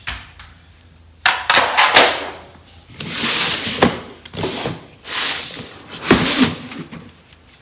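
A run of about five or six loud scraping and rustling swishes, each under a second, as a part is handled or moved.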